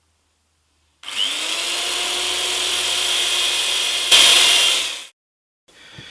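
Old Black & Decker electric drill with a 3 mm centre point bit drilling inlay dot holes in a wooden fretboard. It spins up with a rising whine about a second in and runs steadily for about four seconds, with a louder stretch near the end, then stops.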